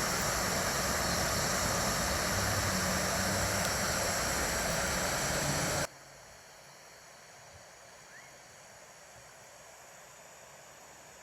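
Steady rushing noise that cuts off suddenly about six seconds in, leaving only a faint hiss.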